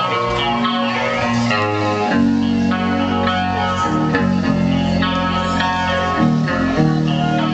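A rock band playing live: electric guitar over bass guitar, the instrumental opening of a song, with the bass line shifting to new, fuller notes about two seconds in.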